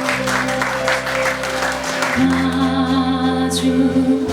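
Live band accompaniment in a gap between sung lines of a Korean folk-pop song: sustained chords over a bass note that shifts about two seconds in, with short rhythmic strokes in the first half.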